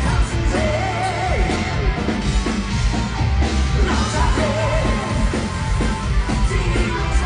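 Live heavy rock band playing loudly, with distorted guitars, bass and drums, and a sung melody line over it.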